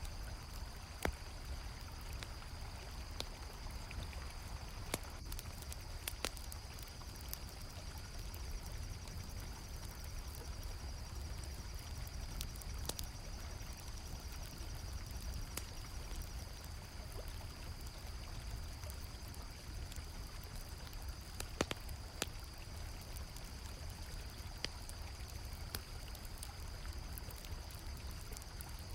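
Steady rush of a flowing river, with a campfire crackling in scattered sharp pops and crickets trilling in a continuous high band.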